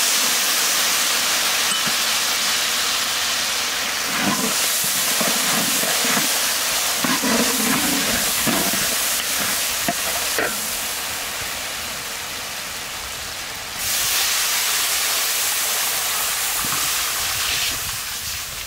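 Hot oil sizzling loudly in a wok as dried red chillies and garlic fry, with a metal spatula scraping and stirring. The sizzle swells suddenly about 14 seconds in and fades near the end.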